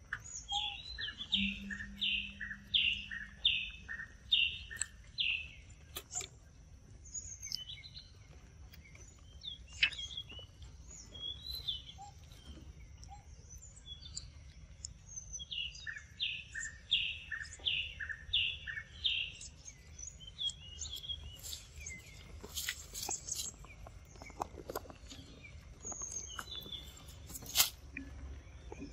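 Forest birdsong: a bird sings a run of about seven evenly spaced repeated notes near the start and again about halfway through, with other scattered chirps between. A thin steady high whine and occasional short clicks run underneath.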